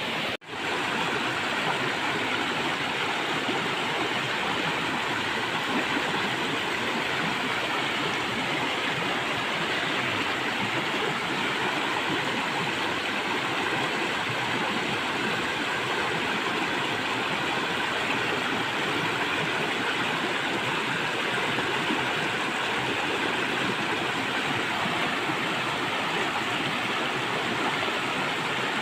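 River water flowing in a steady, even rush, cut off for a moment about half a second in before it resumes.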